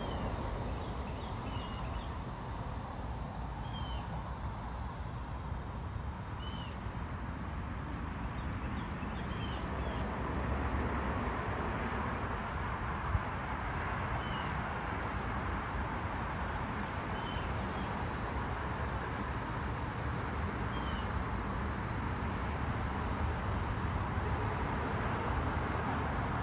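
Mississippi kite calling overhead: short, thin, high whistled notes that fall slightly in pitch, repeated about every two to three seconds over a steady background hiss of wind. A single brief knock sounds about halfway through.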